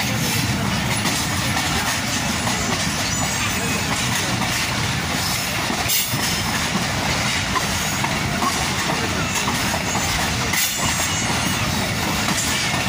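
Passenger train running at speed, heard from aboard a moving coach: a steady rumble and rattle of the wheels on the track, with a faint high wheel squeal about three seconds in and again near the end.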